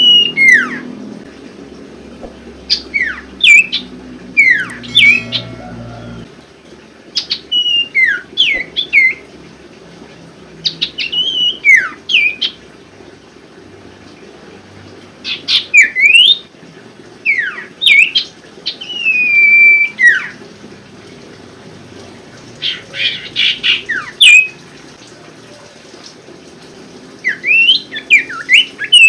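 Common iora (sirtu, or cipoh) singing: repeated short phrases of sharp whistled notes sliding down in pitch, coming every few seconds. There is a longer falling whistle a little past the middle and a harsher, rattling burst of notes later on.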